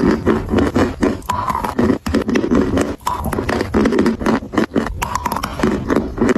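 Close-miked crunching and chewing of edible white mountain chalk: a dense run of rapid, crisp crunches and crackles, with brief let-ups about two and three seconds in.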